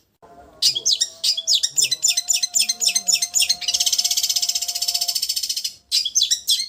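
Long-tailed shrike (cendet) singing: a run of sharp, clipped high notes at about six a second, then a fast, dense trill for about two seconds, then clipped notes again near the end.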